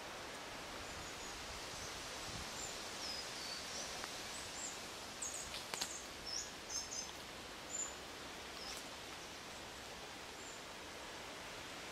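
Small birds calling in short, high chirps, a cluster of them around the middle, over a steady background hiss.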